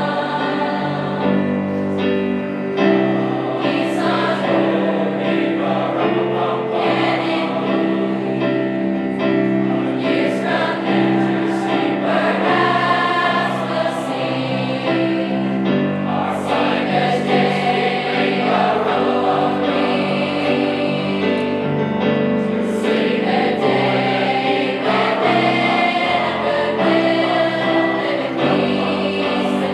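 A high school choir singing a song with instrumental accompaniment, sustained chords changing every second or so.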